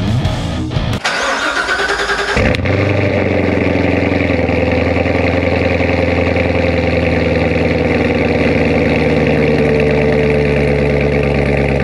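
Chevrolet C7 Corvette Z06's supercharged 6.2-litre V8 cold-starting: a brief crank, then it fires about two and a half seconds in and runs at a steady fast cold idle through its quad exhaust, its pitch easing slightly lower near the end.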